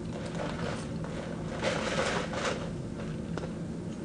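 A person eating hot wings: soft chewing and mouth sounds, clustered in the middle, over a faint steady hum.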